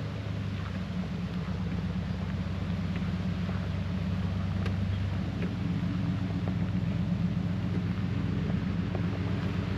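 Pickup truck driving, heard from inside the cab: a steady low engine and road drone with a few faint ticks and rattles.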